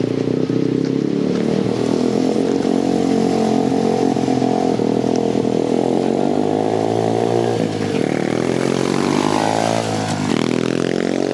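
Dirt bike engine running at a steady speed, then revved up twice near the end, its pitch climbing each time.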